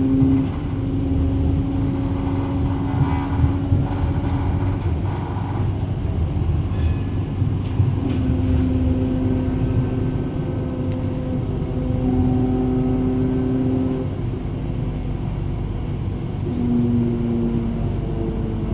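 Flexity low-floor tram running, heard from inside the passenger cabin: a steady low rumble of wheels on rail with an electric drive hum that comes and goes, and a few brief knocks a few seconds in.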